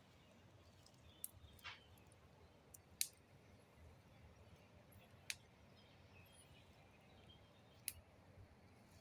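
Burning wood crackling: a handful of sharp, sudden pops a couple of seconds apart, the loudest about three seconds in, over near silence.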